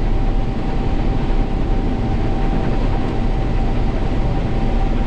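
International Harvester 1440 combine running steadily at work harvesting soybeans, a loud even machine noise with one steady whine through it.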